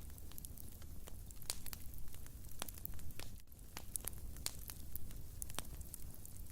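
Fire crackling in a fireplace: many irregular sharp snaps and pops over a steady low rumble.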